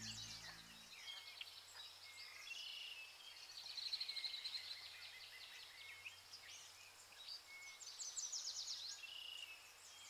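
Birds chirping and singing in scattered short calls and quick trills, faint, as the tail of background music fades out in the first second.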